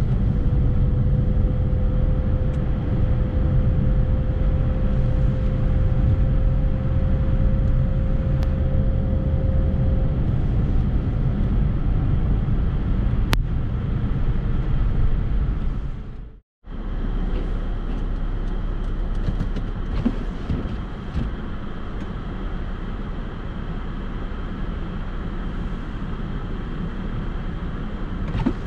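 Steady low rumble of a vehicle driving, with road and engine noise and a faint steady whine in the first ten seconds. The sound cuts out briefly about sixteen seconds in, then resumes.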